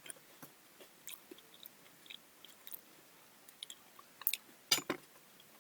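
Close-up wet chewing of soft, juicy melon flesh: quiet mouth clicks and smacks. There is a louder cluster of sharper smacks a little past four seconds in.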